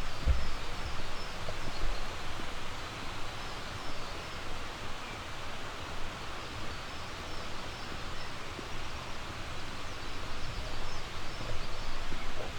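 Steady rushing of a flowing river, with faint short bird chirps above it and a few low bumps near the start and about ten seconds in.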